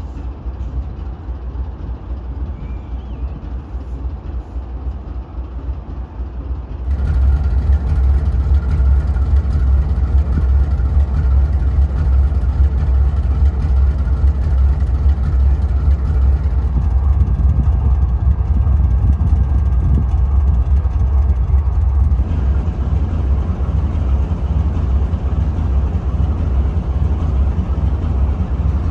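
Steady low mechanical rumble of a train, stepping up suddenly to a louder, fuller sound about seven seconds in.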